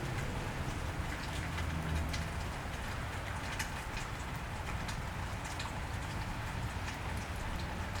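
Steady cold rain falling on a wet street, an even hiss dotted with many sharp drops ticking on nearby surfaces, over a low hum.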